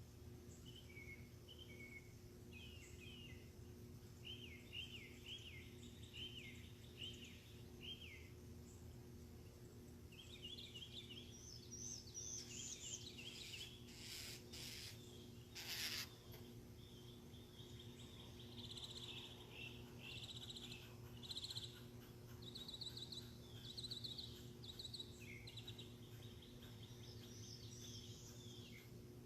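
Faint birdsong: several birds singing repeated short chirping phrases, over a steady low hum. Two short bursts of noise come about halfway through.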